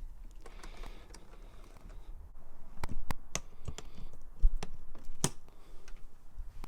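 Camping gear being handled and set in place on a loaded motorcycle: scattered sharp clicks and knocks, with one heavier thump about four and a half seconds in.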